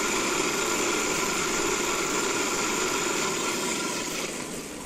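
Aircraft engine running steadily, a broad rush with a high whine over it, easing off near the end.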